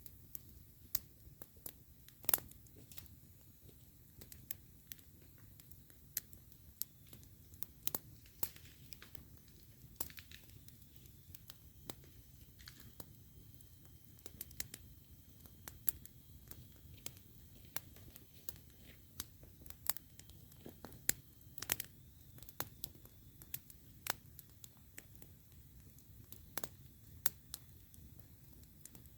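Campfire crackling: burning wood giving off irregular sharp pops and snaps, several a second at times, over a low steady rumble. A faint thin whistle runs for several seconds midway.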